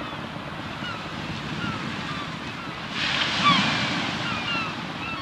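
Rushing water with many short bubbling chirps, swelling louder about three seconds in.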